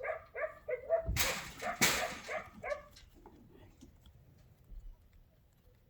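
Cattle dog barking in a quick run of short barks, about three or four a second, that stops about three seconds in, with two brief rushes of noise among the barks. The barking is the dog putting pressure on the cattle it is working.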